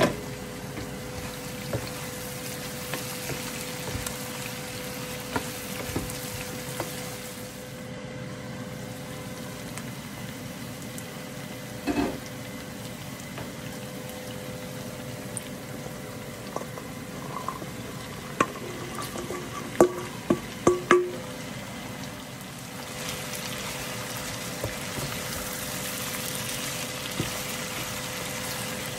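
Pork with onion, tomato and ginger sizzling steadily in its own rendered fat in a frying pan, with a faint steady hum underneath. A few sharp knocks of a utensil against the pan stand out, clustered a little after the middle.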